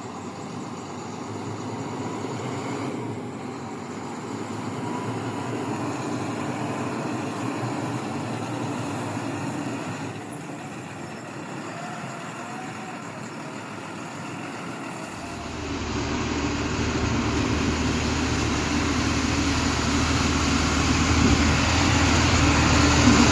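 A truck's engine running as it drives, with a steady mix of engine and road noise. About fifteen seconds in, a deeper rumble comes in and the sound grows louder.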